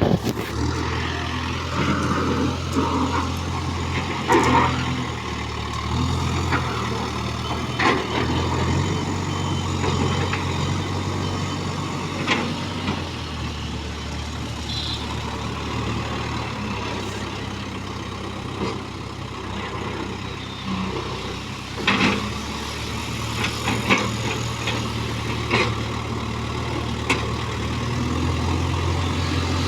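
JCB 3DX backhoe loader's diesel engine running steadily, its note stepping up and down as the machine digs, with occasional short sharp knocks.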